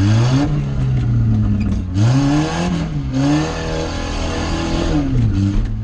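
Volvo rally car's engine being driven hard with a homemade exhaust: the revs climb and drop several times, rising near the start, again about two and three seconds in, and falling off near the end.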